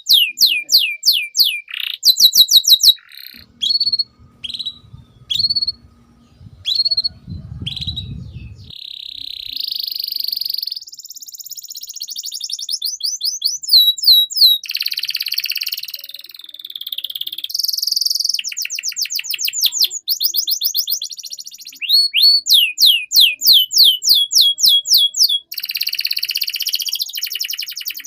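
Domestic canary singing a long song: fast trills of rapidly repeated falling whistled notes, switching from one trill type to the next, with buzzy rolling passages between them. A low rumble sits under the song for about five seconds near the start.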